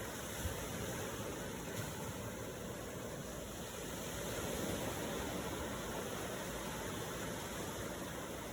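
Ocean waves washing steadily, swelling slightly about halfway through.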